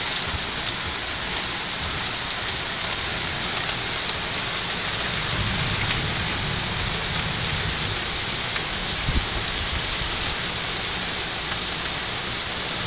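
Heavy rain pouring down steadily in a sudden storm, a dense unbroken hiss with scattered drop ticks.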